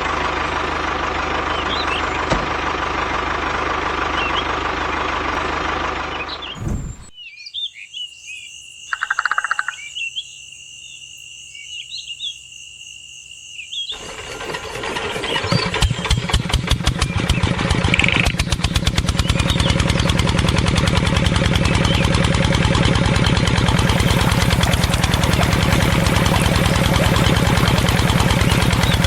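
A small engine running steadily cuts off after about seven seconds. A quieter stretch with bird chirps follows, then about halfway through a small engine starts up with a rapid, even chugging beat and keeps running steadily. It is the engine driving a miniature water pump that waters a field.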